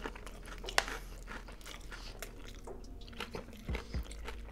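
Close-miked chewing and crunching of Hot Cheetos-crusted fried chicken dipped in cheese sauce: irregular crisp crunches of the breading between the teeth, a sharper one about a second in.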